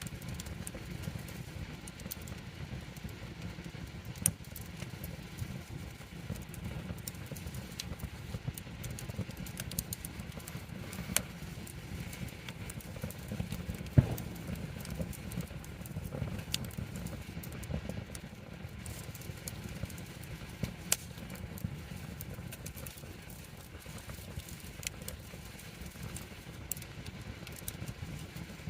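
Wood campfire burning, with sharp crackles and pops of the wood every few seconds over a steady low rumble; the loudest pop comes about halfway through.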